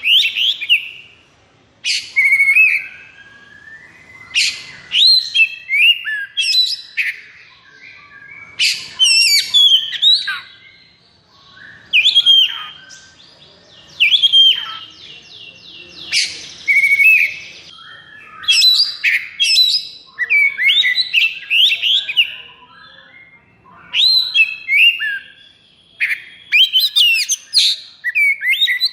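Oriental magpie-robin (kacer) singing in its excited, aggressive 'konslet' style: loud, varied whistled phrases come in quick bursts every second or two, broken by short pauses, with fast rattling trills mixed in.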